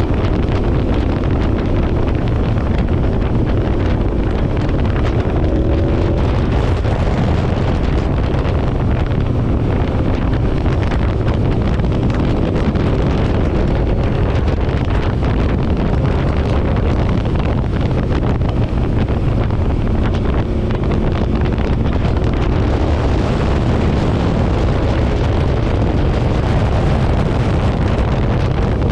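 Motorcycle riding at a steady speed: constant wind buffeting on the microphone over the engine's drone, its pitch shifting a little now and then.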